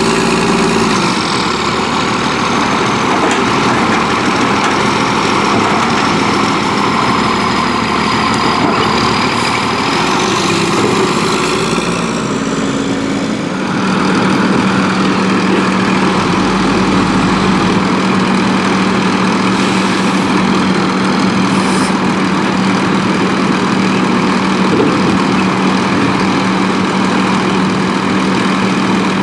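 A Volvo WXLL garbage truck's diesel engine runs loud and steady. A high whine glides up and down through the first half, then the sound settles to a steady low hum.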